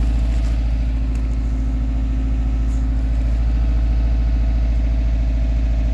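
2004 Subaru Forester STi's turbocharged flat-four idling steadily just after a cold start, through its stock, quiet exhaust. A light whine runs under the engine note, which the owner suspects comes from the power steering pump or the alternator.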